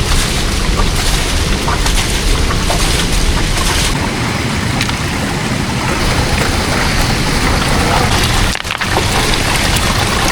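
Loud, steady rush of a large river's flowing water.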